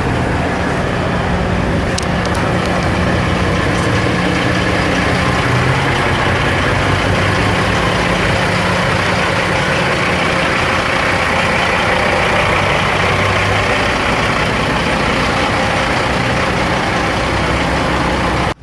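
Heavy diesel truck engines running close by: a loud, continuous rumble with a steady low engine drone.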